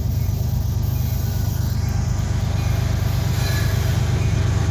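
Diesel freight locomotive's engine running with a steady low drone as it comes by close up.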